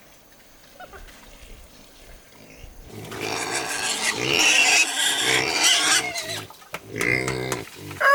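Pig squealing loudly for about three seconds, starting about three seconds in, followed by a shorter call near the end.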